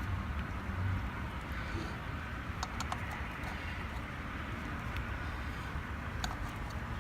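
Steady low background hum with a few light clicks and taps, about a third of the way in and again near the end, as the opened scroll compressor's internal parts are handled.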